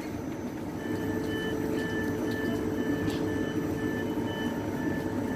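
Twindexx double-deck electric train standing after its stop, its equipment humming steadily with a held low tone. A short high electronic beep repeats a little under twice a second from about a second in.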